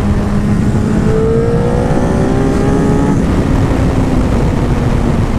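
Suzuki Hayabusa's inline-four engine breathing through Two Brothers Black Series slip-on exhausts, accelerating while riding: its pitch rises steadily for about two seconds, then settles to a steady cruise.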